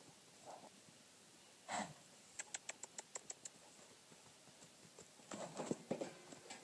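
A horse making short growling noises, one about two seconds in and a longer one near the end, with a quick run of light clicks in between.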